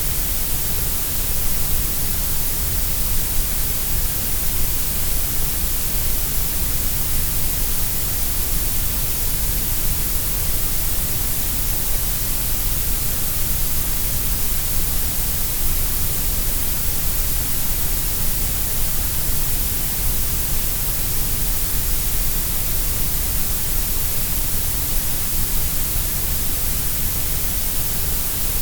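Grey noise: a steady, unbroken hiss, strongest in the deep bass and the treble and weaker through the middle, shaped so every pitch sounds about equally loud.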